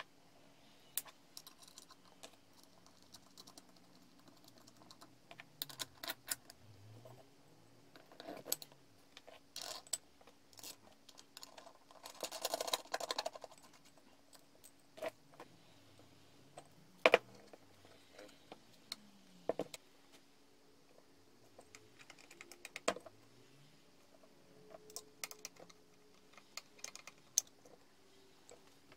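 Scattered small clicks and clinks of metal parts being handled, with a short scraping rattle about twelve seconds in, over a low steady hum.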